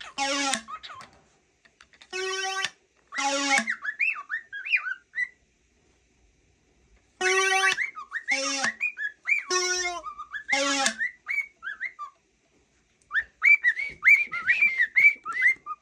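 A cockatiel whistling in short, wavering notes, ending with a quick run of chirpy whistles. Between the whistles a groan-stick toy sounds four times, each time a buzzy higher groan followed by a shorter, lower one.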